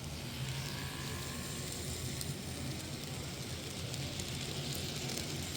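N-scale Atlas RS-3 model locomotive running along the track pulling freight cars: its small electric motor and wheels make a steady low hum with a faint whine over a noisy hiss.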